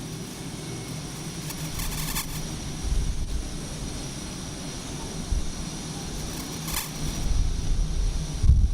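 Aircraft engine noise on an aircraft carrier's flight deck, a steady roar with gusts of wind buffeting the microphone.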